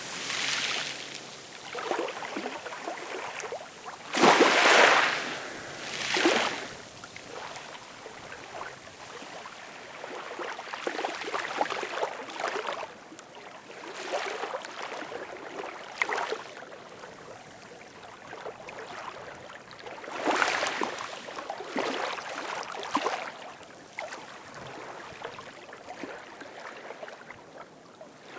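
Ocean waves breaking and washing up a shore, swelling and fading every few seconds, loudest about four seconds in.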